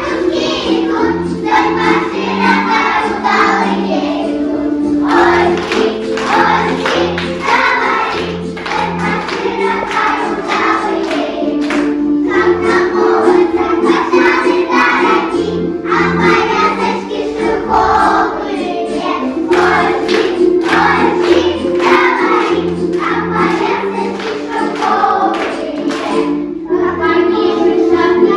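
Group of young children singing a song together, in the style of a Russian folk song, over an instrumental accompaniment with a steady, repeating bass line.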